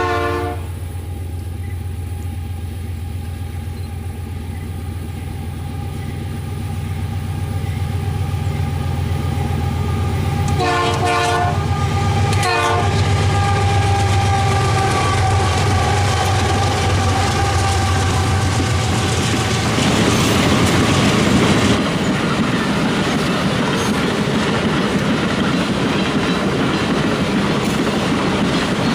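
Diesel locomotives of a loaded iron-ore train running past with a steady engine drone. The horn sounds at the very start and twice more, briefly, about eleven and twelve and a half seconds in. After about twenty seconds the loaded ore hopper wagons roll by with a steady rumble of wheels on rails.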